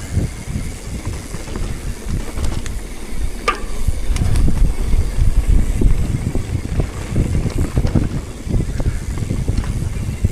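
Wind buffeting the microphone while on the move: an uneven low rumble that rises and falls, with a brief high chirp about three and a half seconds in.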